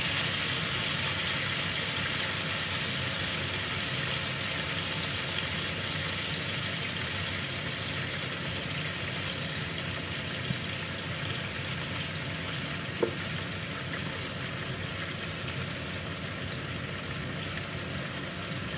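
Minced garlic frying in oil in a nonstick wok: a steady sizzle that slowly dies down. There are a couple of small clicks partway through.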